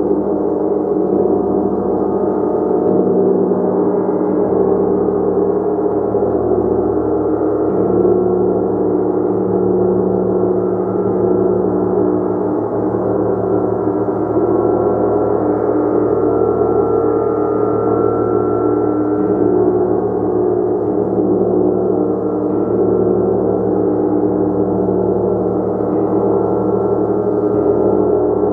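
A gong played continuously with soft repeated strokes every few seconds, keeping up a dense, steady wash of many overlapping low and middle tones.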